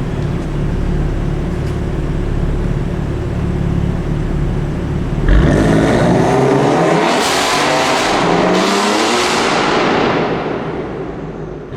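A BMW performance car's engine and exhaust running low and steady, then about five seconds in it opens up into hard acceleration, the pitch climbing for several seconds before the sound fades as the car pulls away.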